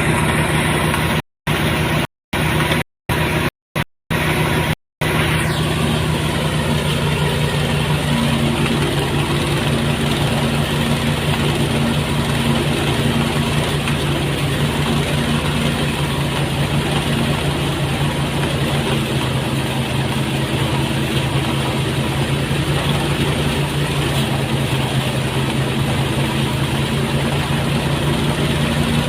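Motorised rice threshing machine running steadily, a constant engine hum over a rushing noise. The sound drops out completely for several brief moments in the first five seconds.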